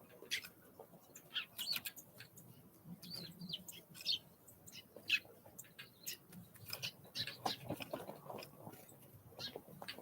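Small wild songbirds calling in many short, high chirps and quick sweeps, mixed with light taps and scuffles.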